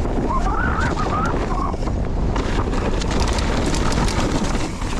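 Wind rushing over the camera microphone with tyres and the rattling of a mountain bike on a muddy, slippery downhill trail, including a run of sharp clicks and knocks midway. A faint wavering whine sounds in the first two seconds.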